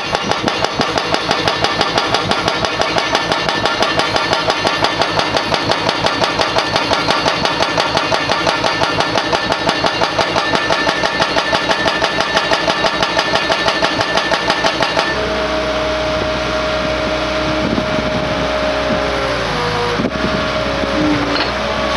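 Kent KF9 hydraulic hammer breaking, a fast, even hammering of about four to five blows a second over the running carrier machine. About two-thirds of the way through the hammering stops, leaving the machine's engine and hydraulics running with a steady whine that dips briefly near the end.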